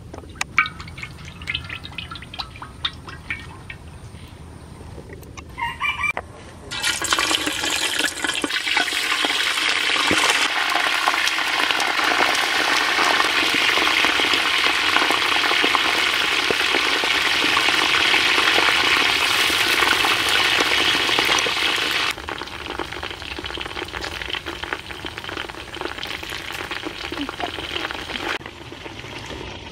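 Cooking oil pouring from a bottle into a metal pan, with small splashes and clicks. About seven seconds in, a loud, even frying sizzle starts with a jump as whole frogs fry in the hot oil. Well past halfway the sizzle drops suddenly to a lighter crackle.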